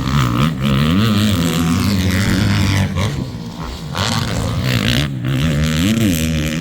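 Motocross dirt bike engines racing on the track, the revs rising and falling repeatedly as the riders work the throttle and shift.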